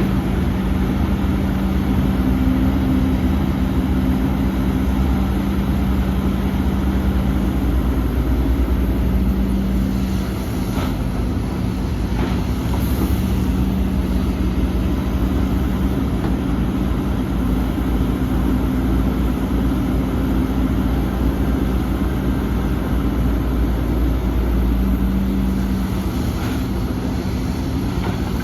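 Heavy diesel earthmoving machinery running steadily at a constant engine pitch, with a few faint knocks about a third of the way in and again near the end.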